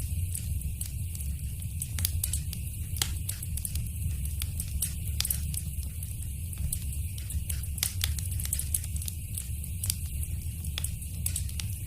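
Fire crackling in a fireplace: irregular sharp pops and snaps over a steady low rumble and a high hiss.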